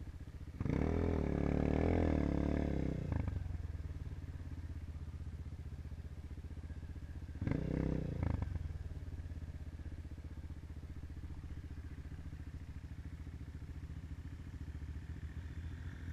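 Dirt bike engine idling with an even low beat, revved twice: a longer rev lasting about two and a half seconds near the start, and a short blip of about a second roughly halfway through.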